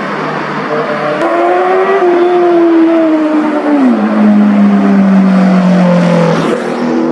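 Superbike engines revving as they pass, the engine note climbing and then dropping sharply about four seconds in and again near the end.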